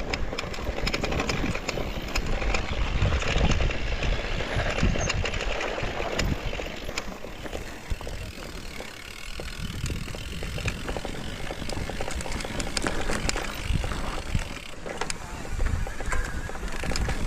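Mountain bike riding over a dirt trail: steady tyre noise with frequent clicks and rattles over bumps, and wind rumbling on the microphone.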